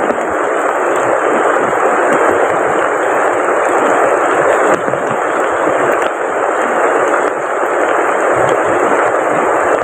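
Heavy rain falling steadily and hard, a dense unbroken hiss.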